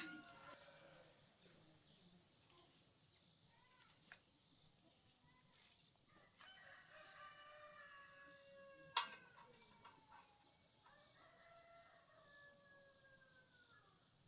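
Two faint drawn-out rooster crows, one about halfway through and another near the end, each falling slightly in pitch. A single sharp click sounds between them, the loudest moment, over a steady faint high hiss.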